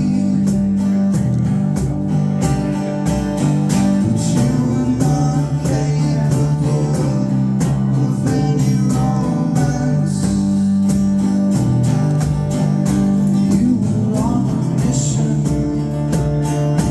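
Live band playing a guitar-led song, with steady strummed rhythm.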